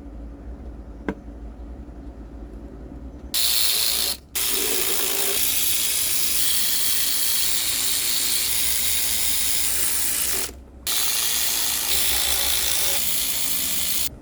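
Power ratchet running bolts down, three long bursts with short pauses between them, as the valve cover is fastened back onto the engine.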